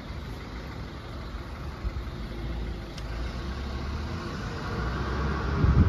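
LNER express passenger train approaching on the East Coast Main Line, its rumble building steadily louder, with wind rumbling on the microphone.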